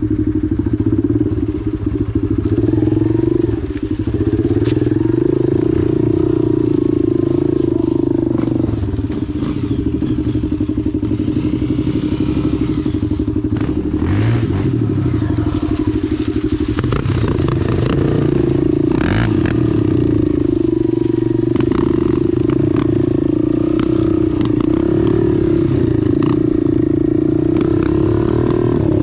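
Dirt bike engine running at low, fairly steady revs while picking through a rocky creek bed. The revs dip and pick up a few times, with occasional clacks of stones under the wheels.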